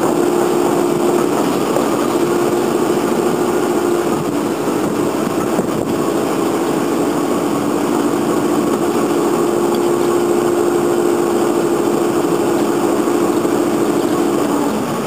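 A heritage railway passenger train pulling out slowly, its engine running steadily with a rumble and two close, steady droning tones that stop shortly before the end.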